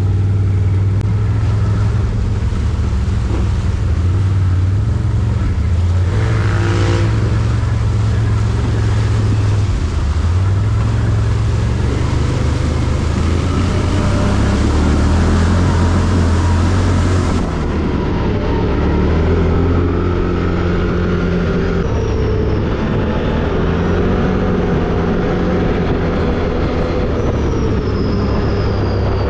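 Quad bike (ATV) engine running hard off-road, its pitch shifting up and down with the throttle, with a short rev rising and falling about seven seconds in.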